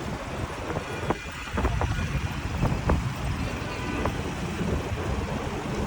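Busy city street ambience: steady traffic rumble that grows heavier about one and a half seconds in, a few sharp clicks, and wind buffeting the microphone.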